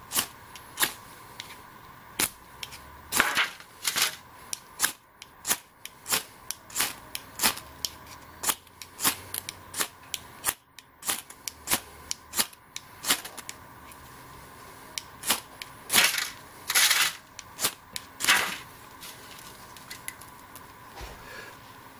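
Ferro rod scraped again and again with a striker to throw sparks into a tinder nest: a quick, uneven run of sharp scrapes, some of them longer rasps. There is a short pause about fourteen seconds in, and the scraping stops about eighteen seconds in.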